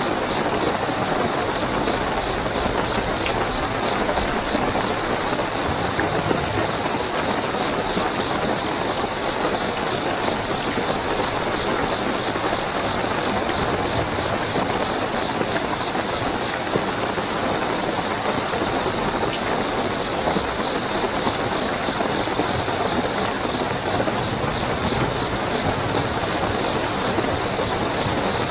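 Steady heavy rainfall with crickets trilling continuously at a high, even pitch.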